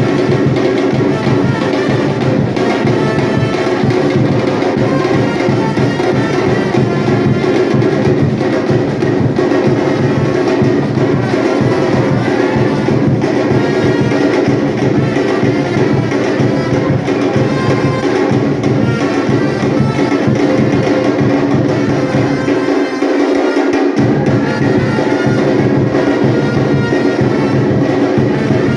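Batucada percussion ensemble playing a dense, steady drum rhythm. The low drums drop out for about a second near the end, then come back in.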